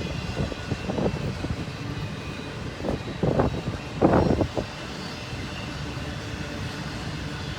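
Intermodal freight train rolling past: a steady low rumble of the cars, with bursts of wheel clatter about a second in and again around three and four seconds in.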